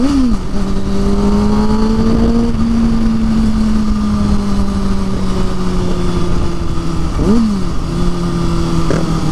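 Motorcycle engine running at road speed, its note steady and easing slowly lower. It revs up and back down briefly just after the start and again near the end, over a constant low rumble of wind noise.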